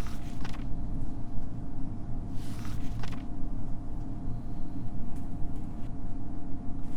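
A vehicle engine running steadily with a deep low rumble and a faint steady hum, and a few brief noises over it.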